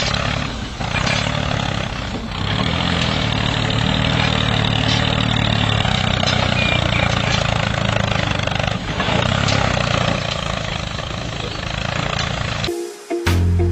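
A small engine running steadily, with a few brief dips in level. It cuts off abruptly near the end, and music takes over.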